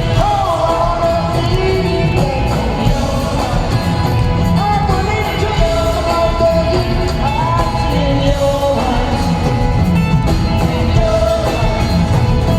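Live rock band playing at a concert, with a voice singing long sliding lines over a full, steady accompaniment.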